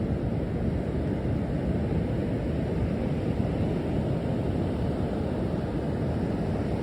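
Storm surf on a beach: a steady, heavy rumble of waves breaking without a let-up.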